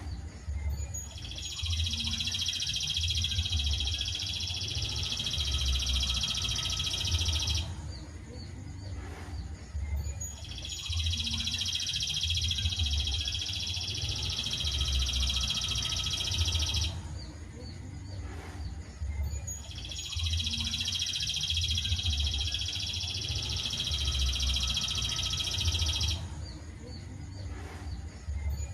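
A songbird tutor recording: a dense, high, buzzing trill that runs about six seconds and then breaks off. It comes back three times, almost identical each time, with a gap of two to three seconds between.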